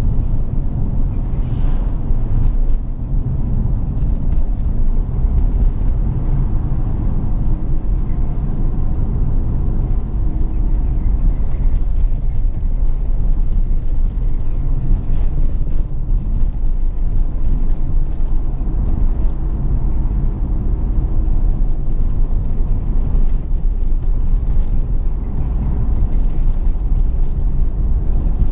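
BMW 650i's V8 and road noise while driving along steadily, a continuous low rumble with no sharp revs or breaks.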